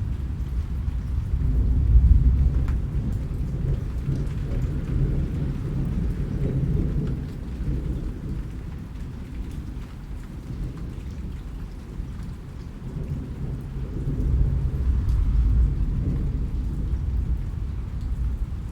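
Steady rain falling, with a deep low rumble that swells twice, about two seconds in and again a little past the middle.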